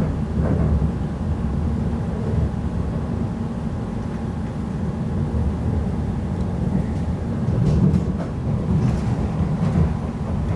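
Running noise inside a Class 345 electric train in motion: a steady low rumble of wheels on the track, with a few faint clicks in the second half.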